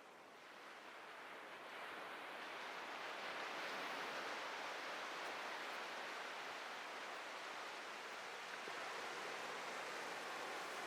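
Atlantic surf on a beach: a steady hiss of breaking and washing waves that swells louder about two seconds in and then holds.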